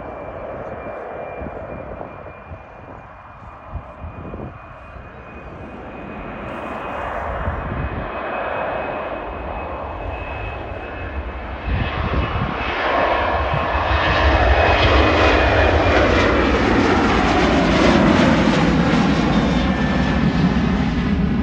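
Boeing 737-8's CFM LEAP-1B jet engines at takeoff power as the airliner departs: a steady high whine over a building rumble that grows sharply louder about twelve seconds in and stays loud, with sweeping tones as it passes.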